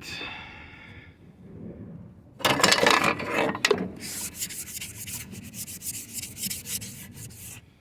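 Rubbing and scraping against a gritty surface: one loud scrape lasting about a second and a half, then a run of quick, short scratchy strokes.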